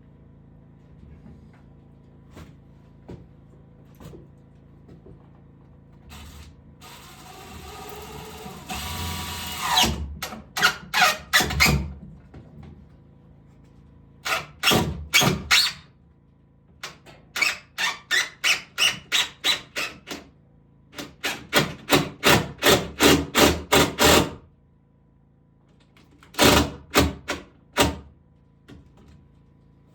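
Woodworking tool sounds: a tool runs and rises for about three seconds. Then come several runs of quick, sharp strokes, about four a second, with short pauses between them.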